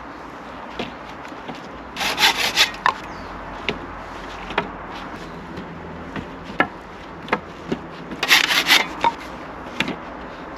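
Wood being worked or handled: two short bursts of rough scraping strokes, about two seconds in and again near the end, with scattered knocks and clicks between.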